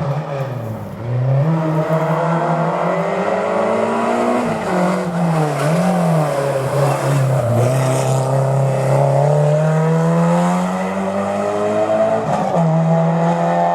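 Historic rally car's engine worked hard through a hairpin: the revs drop sharply about a second in under braking, then rise and fall several times as it accelerates away through the gears, climbing steadily near the end.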